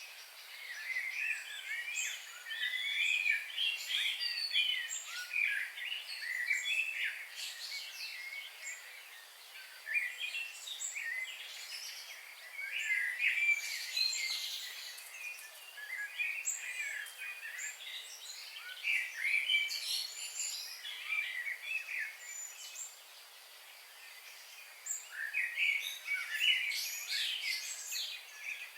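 Several birds singing and chirping at once, a dense chorus of short, high, quickly bending notes over a faint steady hiss. It thins out for a few seconds about three-quarters of the way through, then picks up again.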